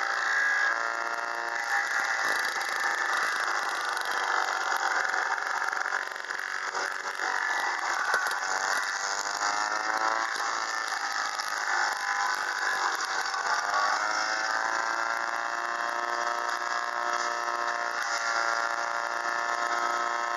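Bolens 1050 garden tractor engine driving a homemade front-mounted wood chipper. The engine's pitch sags and recovers several times as the chipper takes load, over a steady noisy rush of the chipper at work.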